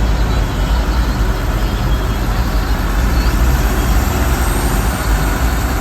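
Steady, loud rumble of a truck on the move, engine and road noise blended with no distinct events.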